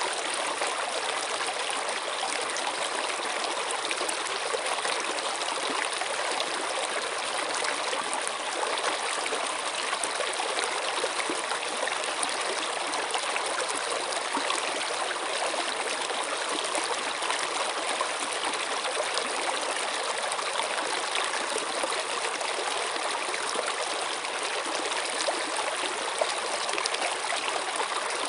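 Running water, like a stream: a steady, even rush of flowing water that never breaks or changes, with little deep rumble.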